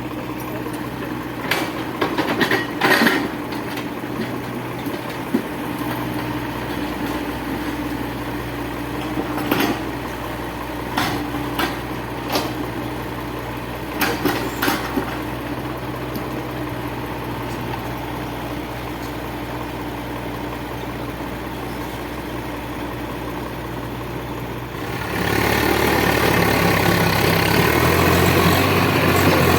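Diesel engine of a heavy farm or construction machine idling steadily, with several sharp metallic clanks scattered through the first half. About 25 seconds in, a louder engine sound takes over.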